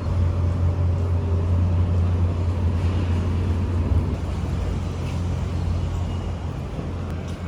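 Sydney electric passenger train running: a steady low rumble with rushing noise, easing slightly about halfway through.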